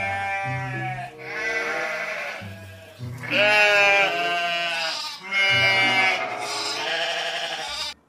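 Sheep bleating, several quavering bleats one after another, the loudest a little under halfway in, over background music.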